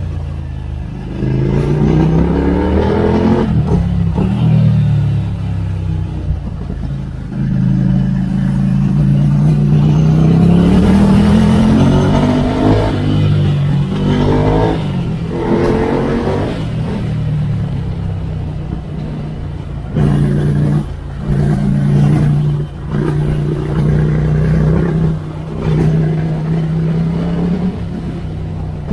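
Ducati Scrambler Icon 803's air-cooled V-twin through a Termignoni exhaust, accelerating up through the gears: the pitch climbs and drops back at each shift, three times in the first half. It then cruises at steady revs, with a few brief throttle-offs near the end.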